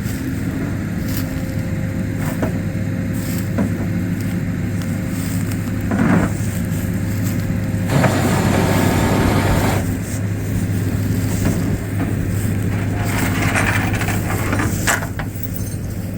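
A vehicle engine running steadily under load while towing a van. There is a louder stretch of rushing noise for about two seconds midway, and shorter noisy spells near the end.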